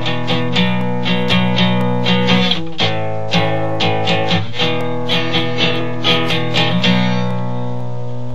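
Guitar music: plucked notes about twice a second over a held low note, the plucking stopping near the end while the low note rings on.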